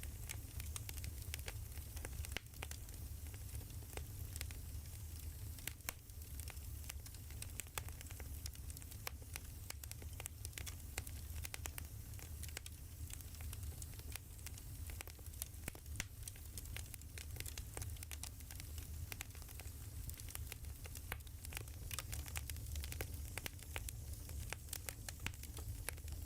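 Firewood burning, crackling with many quick irregular pops and snaps over a steady low rumble of the fire.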